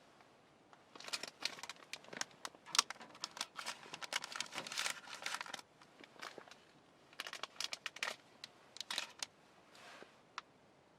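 Irregular bursts of crinkling and rustling from something being handled, loudest in the first half, ending with a single sharp click.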